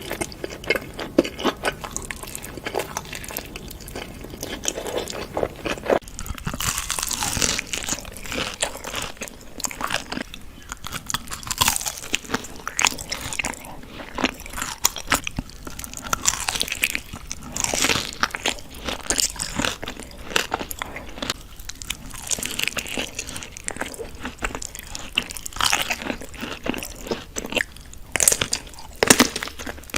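A person biting and chewing crunchy food: a dense, irregular run of crisp crunches and mouth clicks.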